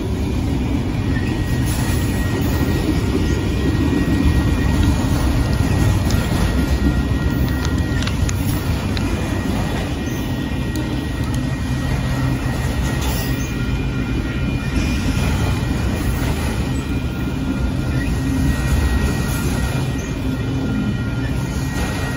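Freight train of multilevel autorack cars rolling steadily past at close range: a loud, even rumble of wheels on rail, with faint steady high-pitched tones above it.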